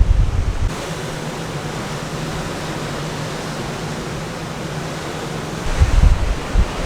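Wind buffeting the microphone in gusts at the start and again near the end, over the steady rush of the sea running past a moving ferry, with a faint steady low hum in the calmer middle stretch.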